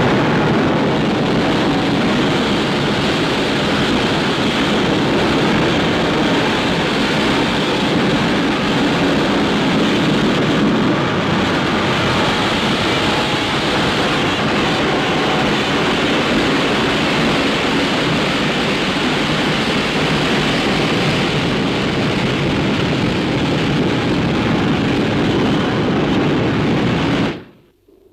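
Loud, steady, pitchless rushing noise, a sound-effect rumble that cuts off abruptly near the end.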